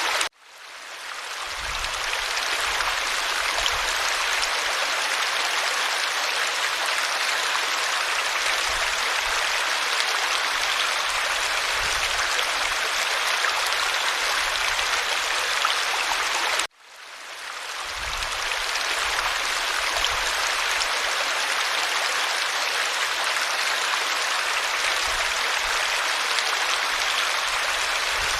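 A creek running steadily, an even rushing of water. It cuts out abruptly twice, at the very start and a little past halfway, each time fading back in over about two seconds where the recording loops.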